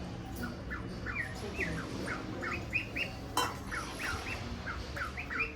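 A small bird chirping in a quick run of short, curving chirps, with one sharp click about three and a half seconds in.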